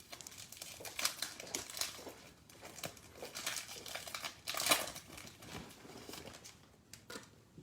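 Wrapper of a basketball trading card pack crinkling and tearing as it is opened by hand, a run of short crackles, loudest about halfway through.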